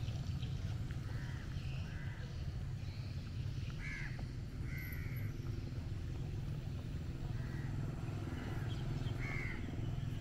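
Birds calling: a series of short calls repeated every second or so, loudest about four, five and nine seconds in, over a steady low hum.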